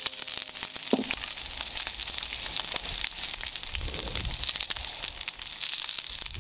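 Sliced onions sizzling in hot oil in a frying pan over medium heat: a steady hiss flecked with fine crackles.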